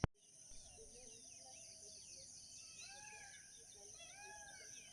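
Many small birds chirping and calling together at sunrise, short arched notes repeating and overlapping, over a steady high-pitched hiss. A sharp click right at the start.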